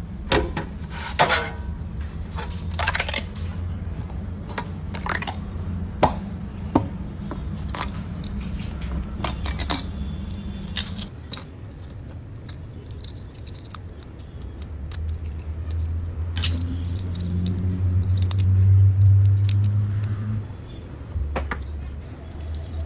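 Sharp clicks and light scrapes of a 3D-printed plastic toothbrush cap being popped open, a toothbrush slid in, and the cap snapped shut. A low steady hum runs underneath and swells for a few seconds near the end.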